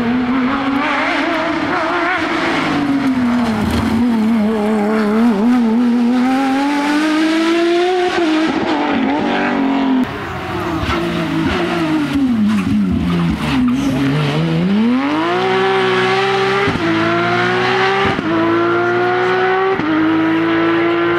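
A Porsche 911 rally car's flat-six engine at full effort on a stage: the engine note rises and falls through the corners, drops low, then climbs hard through four quick upshifts near the end.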